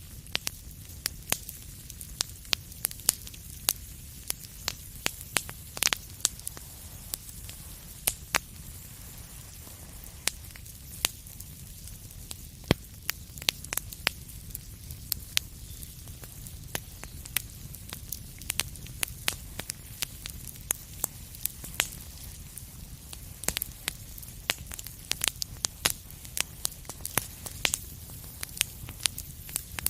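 Wood fire crackling: frequent sharp, irregular pops and snaps over a steady low rumble and hiss of burning.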